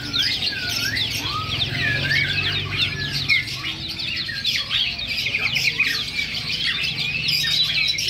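Songbirds chirping: a dense, unbroken stream of quick, high chirps, with lower looping whistled notes now and then.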